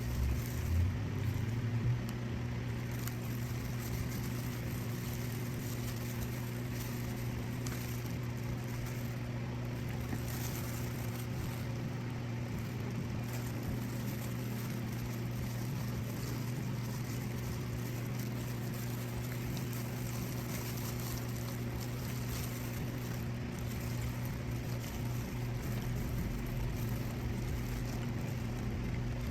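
Steady low machine hum over a constant background noise.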